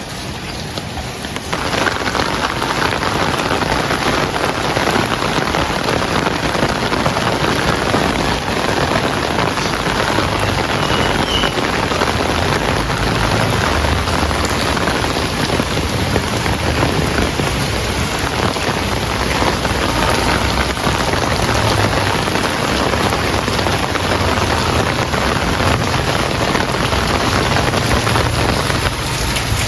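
Heavy rain falling in a dense, steady hiss of drops, which turns abruptly louder about a second and a half in.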